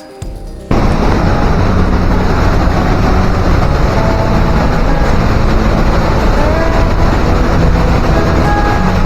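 Loud, steady roar of glacial meltwater rushing through the Trümmelbach Falls gorge, cutting in sharply about a second in.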